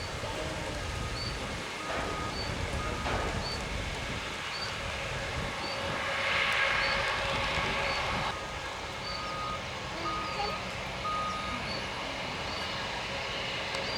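Reversing alarm beeping at about one beep a second: two beeps a couple of seconds in and three more after the middle. Underneath is a low rumble of wind on the microphone, and a hiss lasting about two seconds midway.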